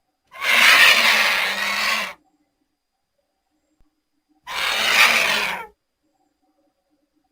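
Vulture giving two hoarse, rasping hisses, the first about two seconds long and the second a little over a second.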